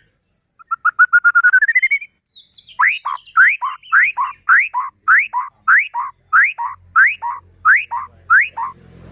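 White-rumped shama (murai batu) singing loudly. It starts with a quick trill rising in pitch, then repeats a two-note phrase, a steep upward-sweeping whistle followed by a lower note, about eleven times at nearly two a second.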